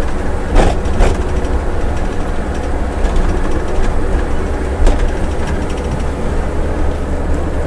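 Steady low rumble of a Scania coach's engine and running gear heard from the driver's seat while it descends a long mountain grade in fourth gear on the engine brake. A few sharp knocks or rattles come about half a second, one second and five seconds in.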